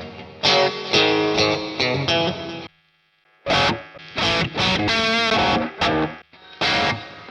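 LTD ST-213 electric guitar played through distortion in short phrases and chords, stopping for a moment about three seconds in. A wavering vibrato note comes around five seconds in.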